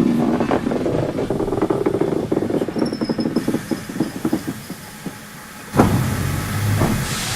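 Train wheels clattering and rattling over the rails as the train slows, the clatter thinning out and fading about four seconds in. Near the end a sudden louder low rumble with hiss sets in.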